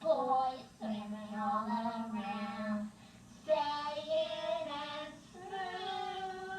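A child's voice singing without recognisable words, holding long notes with a short break about three seconds in.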